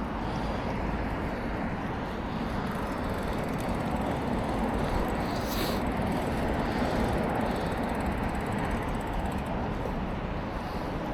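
Steady vehicle and road noise, growing a little louder through the middle and easing off toward the end.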